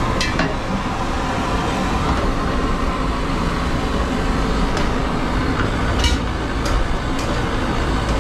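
Steady low rumble of the train heard inside the dining-car kitchen, with a few short sharp clicks and clinks scattered through it.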